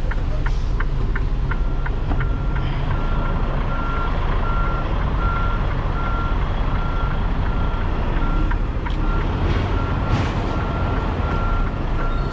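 Backup alarm of a Freightliner Cascadia semi beeping at an even pace as the truck reverses toward a loading dock, over the steady rumble of its diesel engine. In the first second or so a fast, regular ticking comes before the beeping starts.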